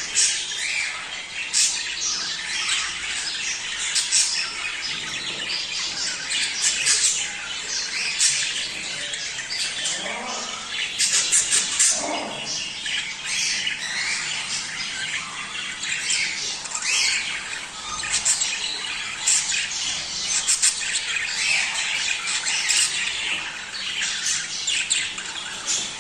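A flock of budgerigars chattering continuously, with dense overlapping chirps, warbles and squawks.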